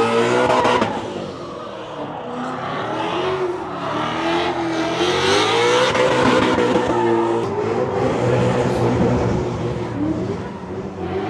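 A car engine revving hard, its pitch repeatedly climbing and falling, with a broad hiss of noise over it.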